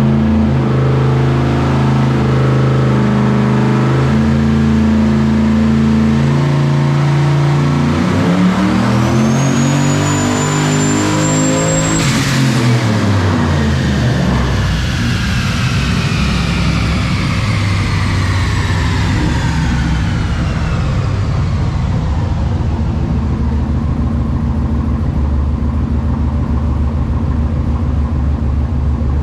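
Turbocharged 6.0-litre LS V8 in a Trailblazer SS making a wide-open-throttle pull on a hub dyno. The revs and a high turbo whistle climb to a peak about twelve seconds in, then the throttle closes and the whistle and engine fall away over several seconds into a steady rumble as it coasts down.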